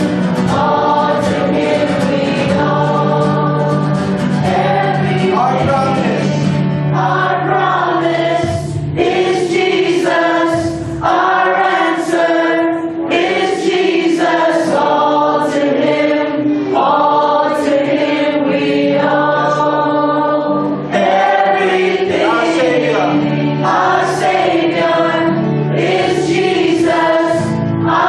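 Choir singing gospel worship music.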